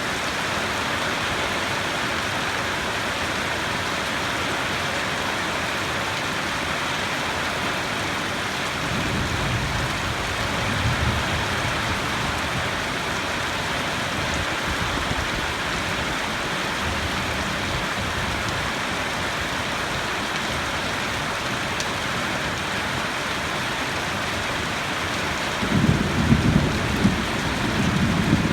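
Steady heavy rain falling, with a low thunder rumble about nine seconds in and a louder, rolling thunder rumble near the end.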